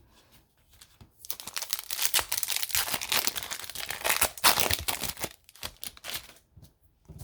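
A foil hockey card pack wrapper being torn open and crinkled by hand, a dense crackling run of about four seconds that thins out to a few last rustles.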